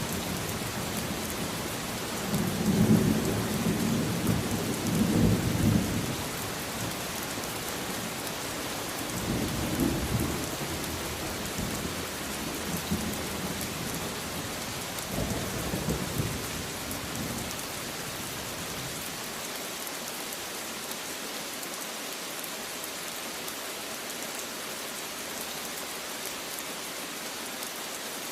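Steady rain hissing throughout, with rolling thunder rumbling low several times in the first half, loudest a few seconds in. After about eighteen seconds the thunder dies away and only the rain remains.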